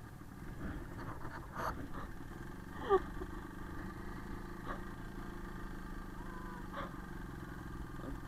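IZh Planeta's single-cylinder two-stroke motorcycle engine running steadily at low speed, with a brief sharp sound about three seconds in.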